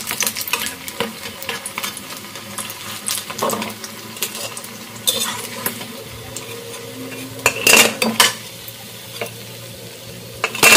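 Battered fritters sizzling as they deep-fry in oil in a metal kadai, with a metal spatula scraping and clinking against the pan as they are turned and lifted out. Louder scrapes come a few times, the strongest a little past the middle and at the very end.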